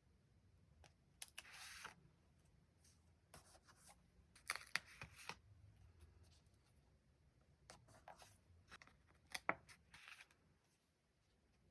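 Stickers and paper being handled for diary decorating: short, scattered peeling and rustling sounds with light clicks and taps.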